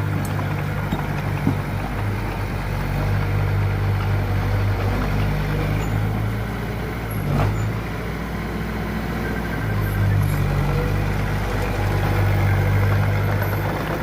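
Diesel engine of earthmoving machinery running steadily with a low hum, easing off a little midway, with one brief knock about seven seconds in.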